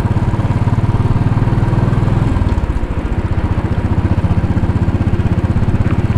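2010 Royal Enfield Bullet 500's single-cylinder engine running at low speed, its firing strokes an even, rapid pulse. The low note eases slightly a little over two seconds in.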